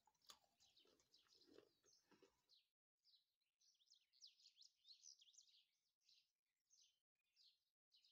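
Very faint birds chirping: a quick run of short, high chirps that keeps breaking off and starting again. There are a few soft clicks in the first couple of seconds.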